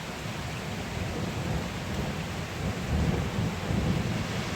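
Thunder rumbling over a steady hiss of rain during a thunderstorm, the rumble swelling about three seconds in.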